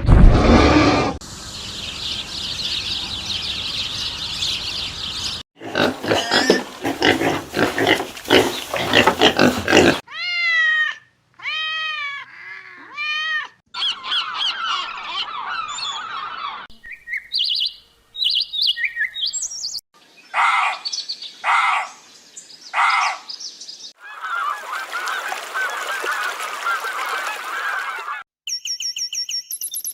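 A string of different animal and bird calls, each clip cut off abruptly before the next begins. The run includes repeated arched calls, short chirps and honk-like calls.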